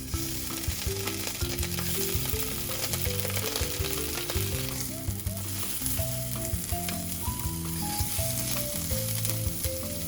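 Food sizzling and crackling as it cooks, a steady hiss dotted with small pops.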